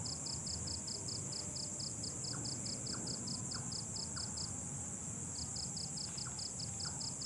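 Night insects: a steady high-pitched drone with a cricket chirping in an even fast pulse, about six chirps a second, that stops for about a second past the middle and starts again. Faint short chirps come and go behind it.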